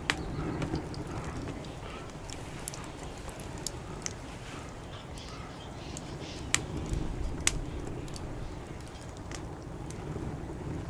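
Wood fire crackling, with scattered sharp pops, the loudest right at the start and two about a second apart past the middle, over a steady low rumble.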